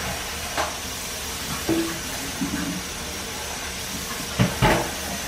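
Sliced smoked sausage rounds frying in hot butter in a skillet: a steady sizzling hiss with a few sharp pops, two close together near the end.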